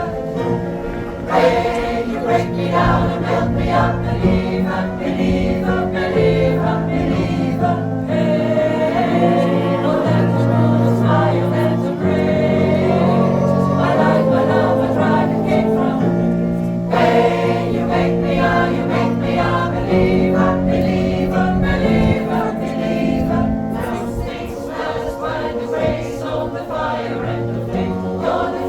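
Pop choir singing in harmony, the voices holding long chords over a bass line that changes every couple of seconds.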